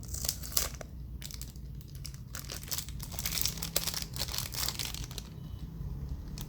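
Irregular crinkling and rustling with many small sharp clicks: hands handling a 1955 Zippo lighter and whatever it is wrapped in.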